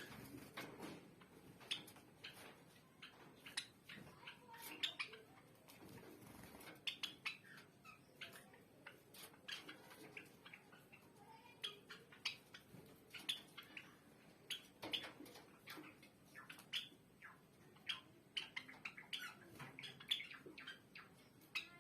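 Java sparrows in a colony cage chirping: short, sharp, faint chips coming irregularly, at times several a second, from several birds.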